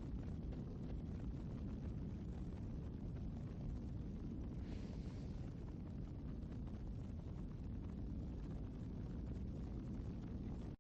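Low, steady background noise with no music: a faint rumble and hiss, with a brief, slightly brighter hiss about five seconds in.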